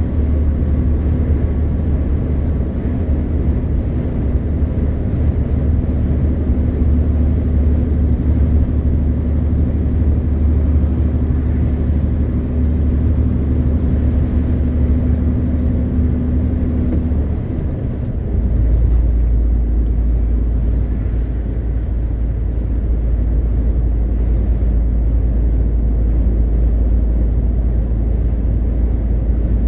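MAN TGX 520 truck's diesel engine droning steadily with road noise, heard from the cab. About 18 seconds in, the loudness dips briefly and the drone settles at a lower pitch.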